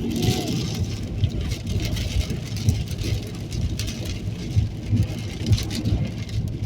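Storm wind and rain beating on a moving car, over a heavy, uneven low rumble of road and engine, with gusty hiss and irregular spikes of impacts.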